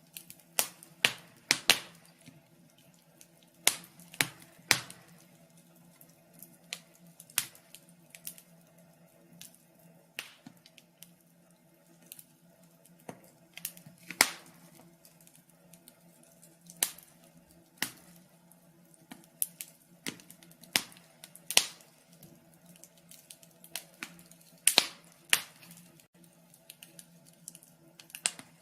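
Wood fire crackling: sharp, irregular pops and snaps, several a second, some much louder than others, over a faint low hum.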